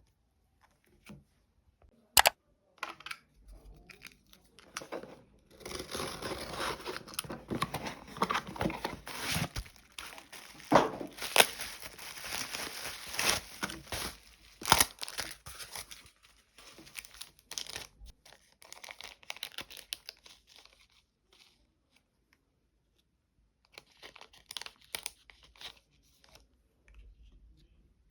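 Packaging being torn open and crinkled by hand while unboxing a parcel of goods: a sharp click about two seconds in, then a long stretch of dense tearing and crinkling with a few loud snaps, dying down to scattered rustles with a pause before a last short burst.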